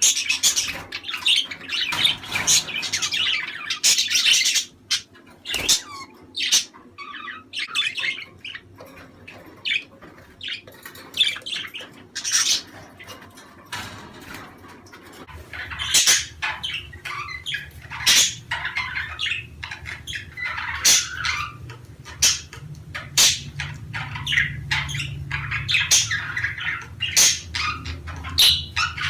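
Budgerigars chattering, with many short squawks and chirps. The calls are dense in the first few seconds and then come in scattered bursts. A steady low hum comes in about halfway through.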